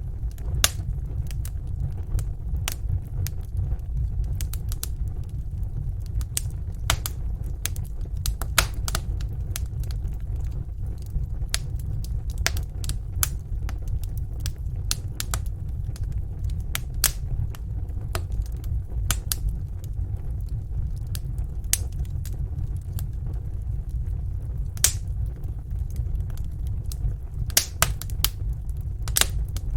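Wood fire in a fireplace crackling: irregular sharp pops and snaps, several a second at times, over a steady low rumble.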